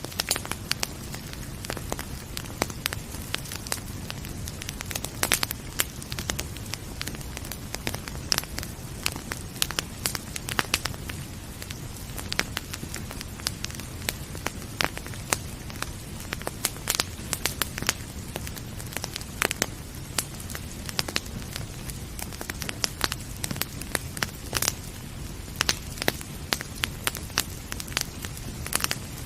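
Wood fire crackling, with many sharp irregular pops over a steady low rumble of flames.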